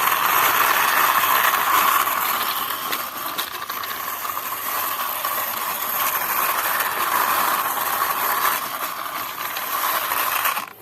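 Toy CNG auto rickshaw being pushed by hand along a rough wall, its small plastic wheels giving a steady gritty rolling, scraping noise that cuts off suddenly at the end.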